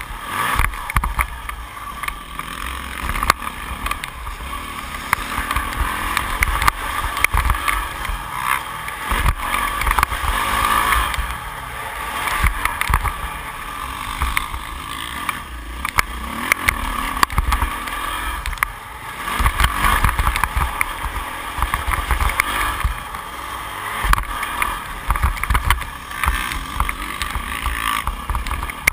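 Yamaha YZ450F 2008 450 cc four-stroke single-cylinder engine running as the motocross bike is ridden round the track, rising and falling in loudness with the throttle. Heavy low rumble and frequent short knocks go with it throughout.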